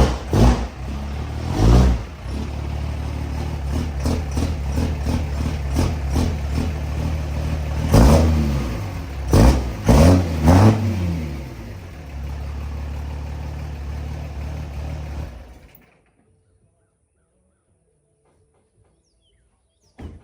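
Cammed truck engine idling with a lopey, choppy idle, revved in short throttle blips near the start and again around the middle. It stops a few seconds before the end.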